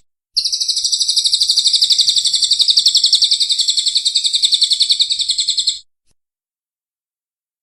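Songbird giving a long, fast trill of evenly repeated high notes, about ten a second, which stops abruptly after about six seconds.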